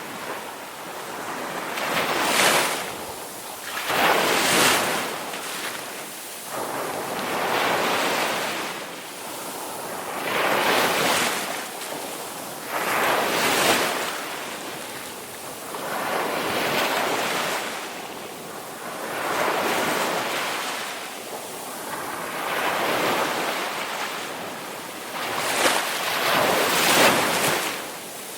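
Ocean waves breaking and washing in, one after another, the surf swelling and falling roughly every two to three seconds.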